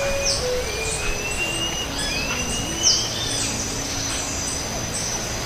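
Forest birds calling over a steady high thin tone. Sharp high calls sweep downward about every second and a half, two long rising whistles come about a second and two seconds in, and a lower series of notes steps downward in pitch.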